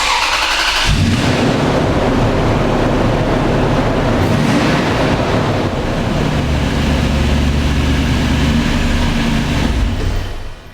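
2002 Toyota Tundra's 4.7-litre V8 starting: a short crank, catching about a second in, then running steadily before it cuts off near the end.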